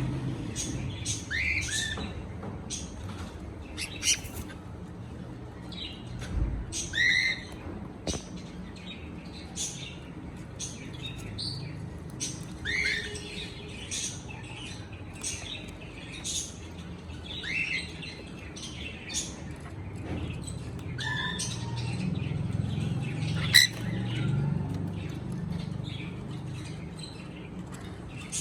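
Cockatiel chirping: many short, scattered chirps and calls, several of them quick sweeps in pitch, with one sharper call near the end.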